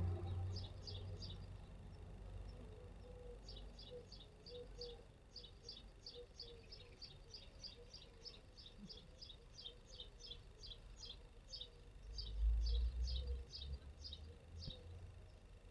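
A small bird chirping over and over, a steady series of short high chirps about three a second. A low rumble rises briefly about three-quarters of the way through and is the loudest part.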